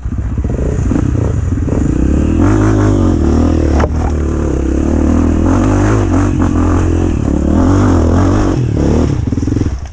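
Dirt bike engine revving hard and unevenly for several seconds, its pitch rising and falling as the throttle is worked.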